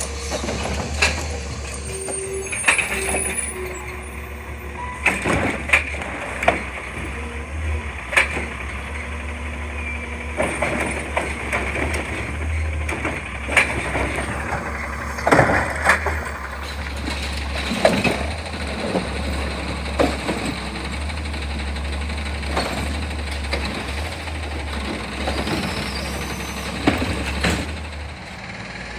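Garbage truck engine running steadily, with repeated sharp metallic clanks and bangs from the truck at work.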